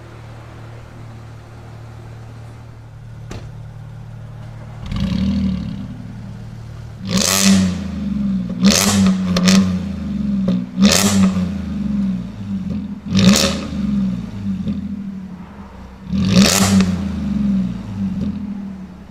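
Supercar engine idling with a low drone, then revved hard in short throttle blips: one about five seconds in and then about six sharp revs, each rising and falling quickly.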